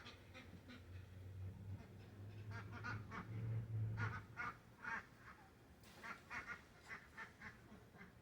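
Domestic ducks quacking in a series of short calls, several a second in bursts, over a low hum in the first half.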